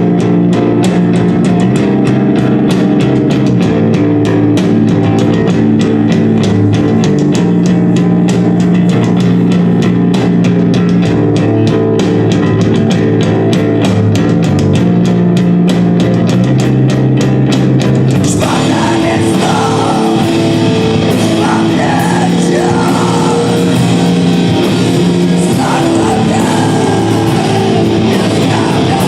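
A live rock band playing loud, with electric guitar and drums driving a fast beat. About eighteen seconds in, the sound opens up with cymbals and a voice singing over the band.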